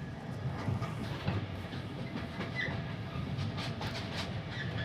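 Passenger train coach running along the track, heard from inside: a steady low rumble with faint clicks and knocks from the wheels and bogies.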